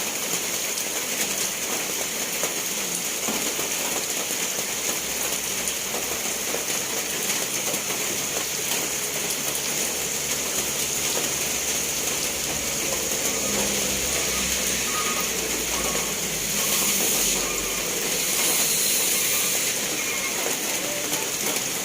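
Steady rain falling, an even hiss throughout. A low rumble swells in the background about two-thirds of the way through, then fades.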